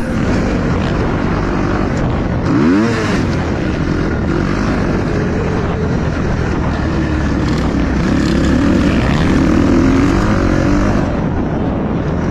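Motorcycle being ridden at speed: the engine runs steadily under heavy wind rush on the microphone. About two and a half seconds in, the pitch briefly rises and falls.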